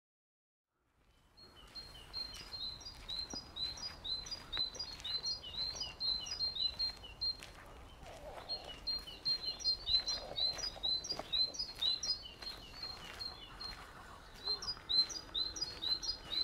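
Small songbirds chirping and singing, a rapid string of short high notes repeated over and over, starting about a second and a half in after silence.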